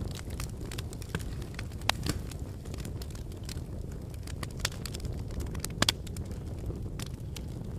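Wood fire crackling in a fireplace: a steady low rumble of flames with scattered pops and snaps, a few louder pops about two seconds in and again later on.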